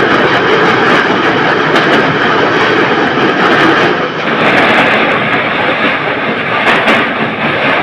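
Express passenger train running over a rail bridge, heard from the open coach door: a loud, steady rumble and rush of air.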